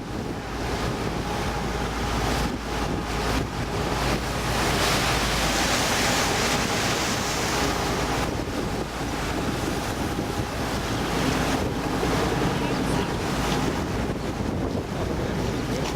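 Motorboat running under way, its engine a steady low hum beneath water rushing past the hull and wind buffeting the microphone; the rushing hiss swells for a few seconds about four seconds in.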